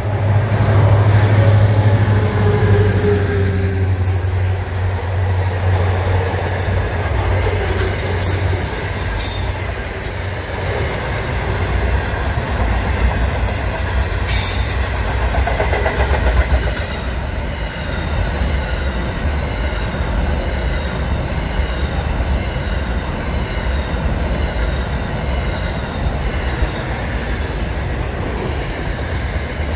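Diesel freight train passing close by. The locomotive's engine drone is loudest in the first several seconds, then the container wagons keep up a steady rolling rumble, with a few brief high wheel squeals.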